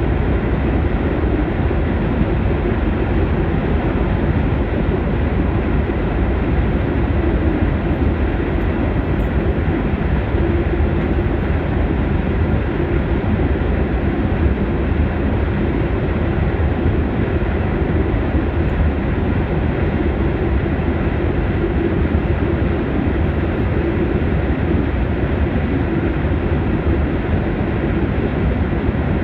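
Steady running noise of a Fertagus electric commuter train, heard from inside the carriage, as its wheels roll along the rails across a steel truss bridge.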